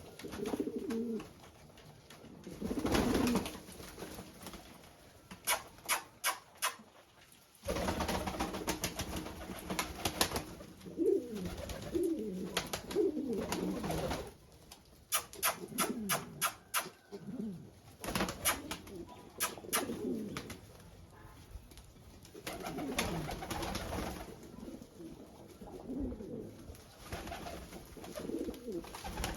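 Domestic pigeons cooing in repeated low, gliding phrases, with runs of sharp clicks in between.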